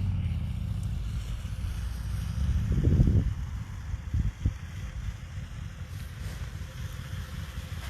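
Wind buffeting the microphone: a low, uneven rumble that swells and fades, strongest about three seconds in.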